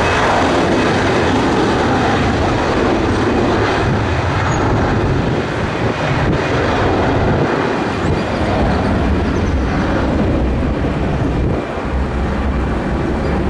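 Loud, steady noise of a jet airliner's engines, easing off a little after about five seconds.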